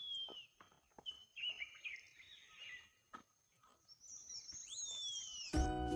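Wild birds calling: a whistled note that falls in pitch, heard twice, with warbling and high chattering calls between.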